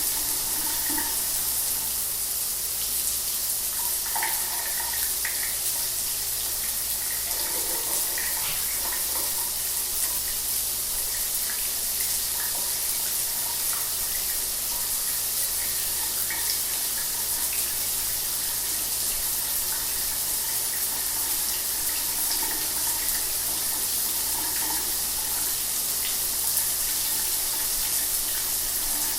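Shower water running steadily, a constant spray hiss with faint splashes scattered through it.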